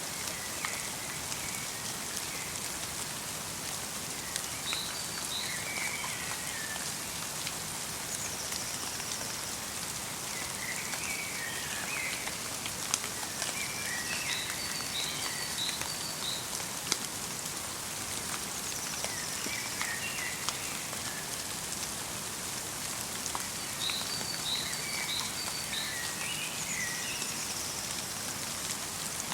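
Steady light rain pattering, with individual drops ticking now and then. A small songbird calls in short phrases of quick high notes, repeated every few seconds.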